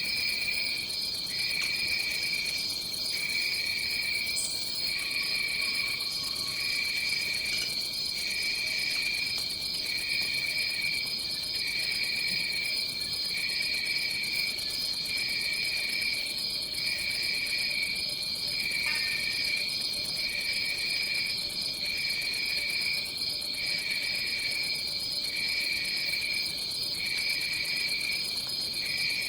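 A tropical rainforest insect chorus: a steady, high-pitched continuous trill, with a lower pulsing chirp that breaks off and resumes roughly every one and a half seconds.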